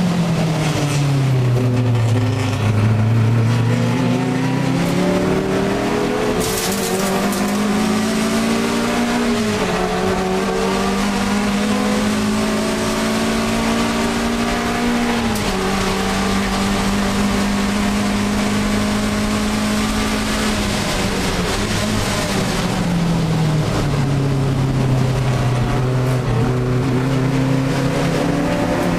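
Alfa Romeo 1750 GTV's twin-cam four-cylinder engine under racing load, heard from inside the cabin. Revs drop at the start, then climb, with upshifts about ten and fifteen seconds in. The engine holds a steady note, drops again a little past twenty seconds, and climbs once more near the end.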